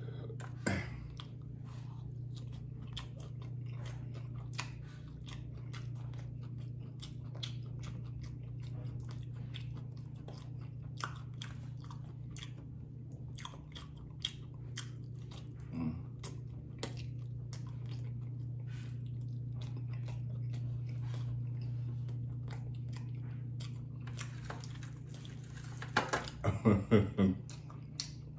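Close-miked chewing and crunching of crispy fried chicken wings: many small, sharp crunches over a steady low hum. Near the end a short loud stretch of voice cuts in.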